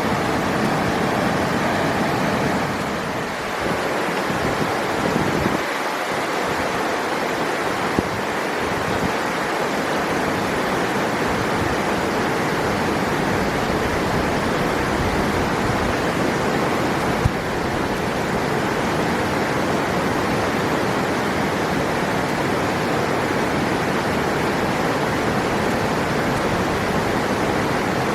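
Rushing river water, a steady even rush of noise, with two faint clicks about eight and seventeen seconds in.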